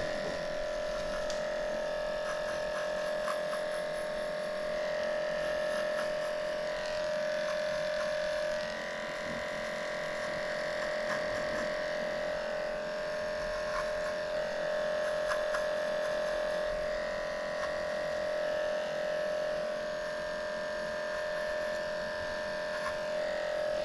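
Electric dog grooming clipper running steadily while shaving the fur between a dog's paw pads, its hum rising and falling slightly as the blade meets the fur.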